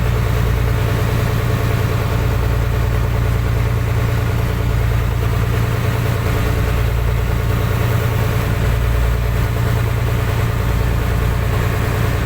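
A fishing boat's engine running steadily at a low, even speed, with a deep hum that does not change.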